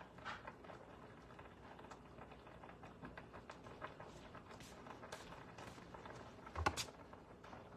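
Small handling noises in a kitchen: scattered light clicks and taps, with one louder knock about two-thirds of the way through.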